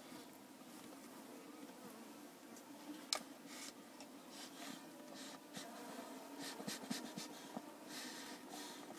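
Honeybees buzzing steadily in an open top bar hive, a low hum. There is one sharp click about three seconds in and a few scraping clicks in the second half as the hive is worked.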